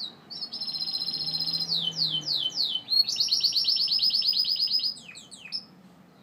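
Gloster canary singing one song phrase: a rapid trill, then a few quick down-slurred notes, then a second long rapid trill, ending with a couple of short falling notes.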